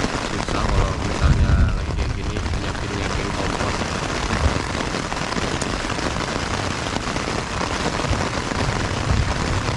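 Heavy thunderstorm rain with wind, a steady dense rush. A louder low rumble comes in about a second in and fades within half a second.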